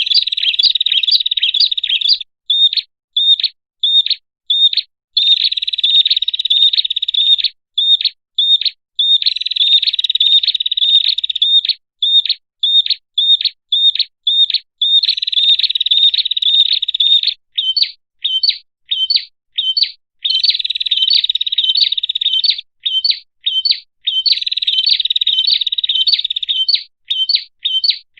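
Prinia (prenjak) bird-lure calls: sharp high chirps about two a second, alternating with fast buzzy trills each lasting two to three seconds, repeated over and over.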